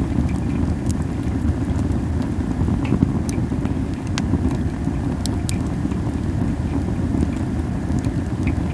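Campfire of burning masaki (Japanese spindle tree) wood crackling, with scattered sharp pops over a steady low rumble of flame and wind on the microphone.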